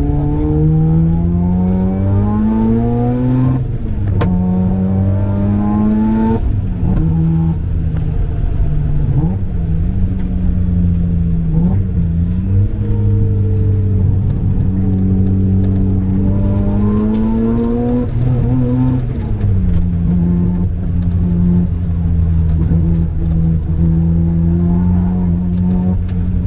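Turbocharged 13B rotary engine of a single-turbo Mazda RX-7 FD3S at full throttle on track, revs climbing and dropping at upshifts about three and a half and six seconds in, and again near eighteen seconds, with a high whistle rising before the shifts. Between the shifts the revs rise and fall through corners.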